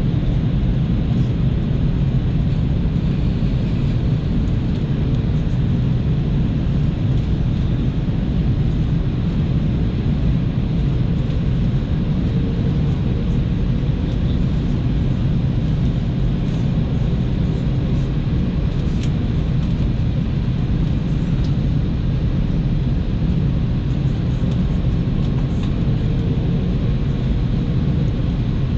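Steady cabin noise of an Airbus A330-200 in flight on approach: a constant low rush of engines and airflow, with a few faint ticks now and then.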